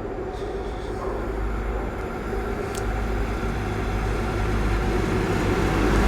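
Class 43 HST diesel power car arriving at the head of its train, a steady low rumble that grows gradually louder as it approaches. A short click sounds a little under three seconds in.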